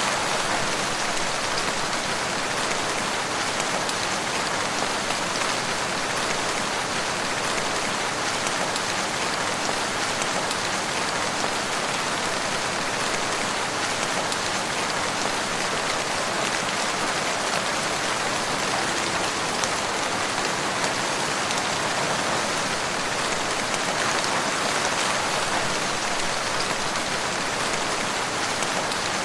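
Steady rain falling with an even, unbroken patter.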